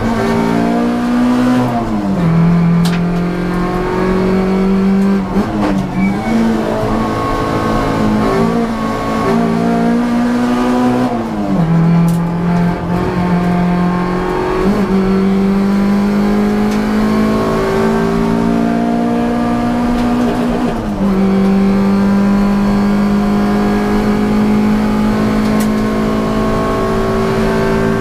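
Hyundai Getz hillclimb race car's engine heard from inside the cabin, pulling hard under load. Its note climbs slowly and falls sharply at gear changes about 2, 11 and 21 seconds in, with an unsettled stretch around 5 to 6 seconds in.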